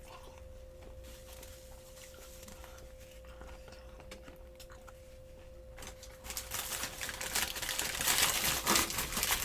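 A faint steady hum, then from about six seconds in, dense close-miked crinkling and crackling as fried-chicken food is handled and eaten.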